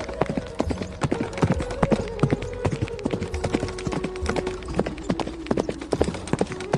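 Hooves of several horses clopping on the ground in a quick, irregular patter of hoofbeats.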